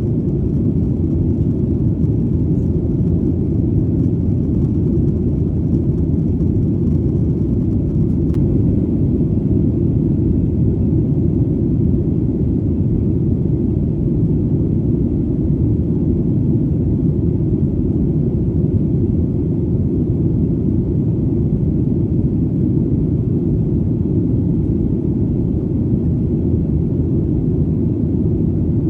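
Airplane engine noise: a steady, deep rumble that holds even in pitch and level, with no tones or breaks.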